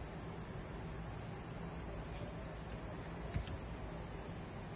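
Steady high-pitched chirring of crickets, with a low steady hum underneath.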